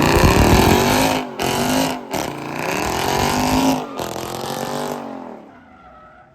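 Car engine revving hard in repeated surges, its pitch climbing and falling, over squealing tyres as the car spins them. The revs cut out sharply about a second in and twice more, and the whole sound fades away after about five seconds.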